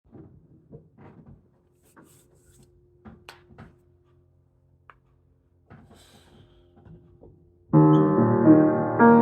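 Faint scattered knocks and shuffles over a low hum, then an improvised piano piece begins near the end with a full chord held ringing, and further notes struck just before the end.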